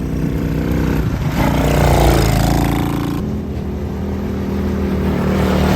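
Small off-road vehicle engine running close up, revving with a rising pitch around a second and a half in, then running steadily.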